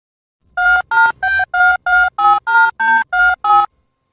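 Phone keypad tones: eleven short two-tone beeps in quick succession, the pitch changing from beep to beep, as a number is dialled.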